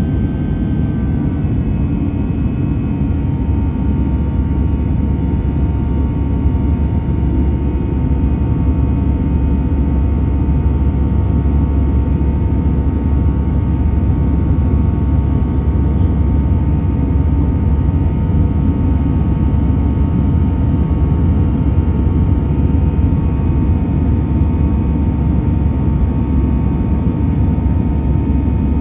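Airbus A320 jet engines running steadily: a loud, even low rumble with a steady whine above it.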